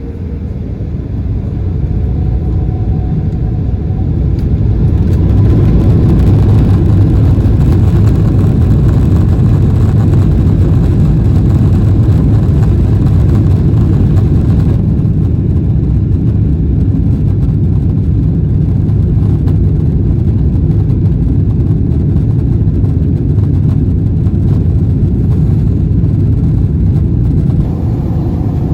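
Jet airliner cabin noise: a steady low rumble of engines and airflow heard inside a Boeing 777-300, growing louder over the first few seconds and then holding.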